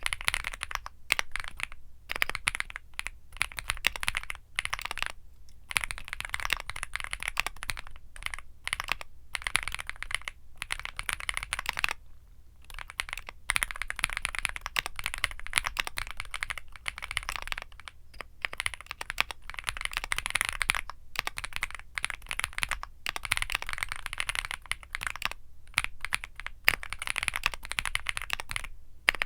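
Womier SK75 mechanical keyboard with Womier Mint Blizzard switches being typed on continuously: fast runs of keystroke clicks broken by a few brief pauses.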